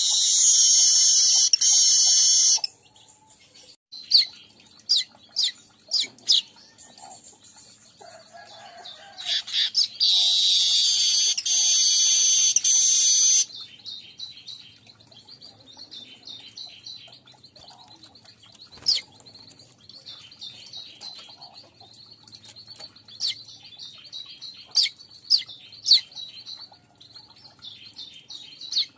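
Weaver (manyar) birdsong: a run of quick high chirps, broken by two long, loud, harsh buzzes, one at the start and one about ten seconds in.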